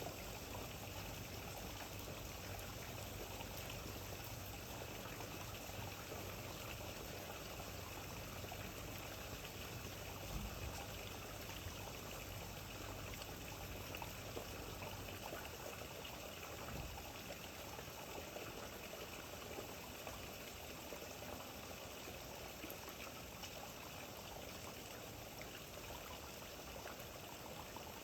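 Steady rainfall with water running and trickling, an even wash of sound with no breaks. A faint low hum underneath stops about halfway through.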